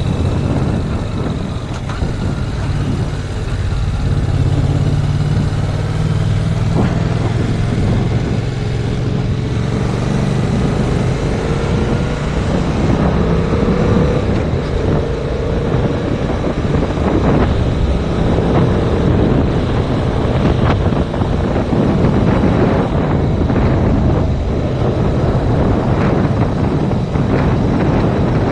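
Yamaha MT-07's 689 cc parallel-twin engine running under way, heavily buffeted by wind on the GoPro microphone. The engine note climbs for a few seconds about a third of the way in.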